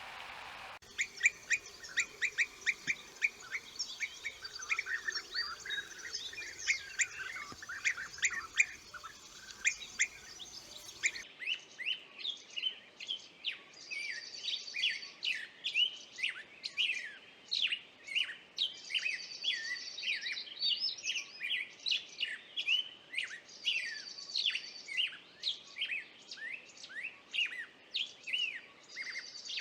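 Several birds chirping and singing in rapid, overlapping calls. About eleven seconds in the background changes abruptly to another chorus of chirps, with a high trill that comes back every few seconds.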